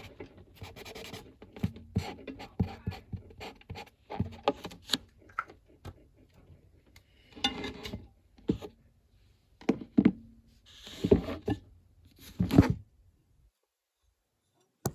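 Scattered clicks, knocks and short rubbing sounds of coloring supplies and paper being handled on a tabletop, dying away to near silence about 13 seconds in.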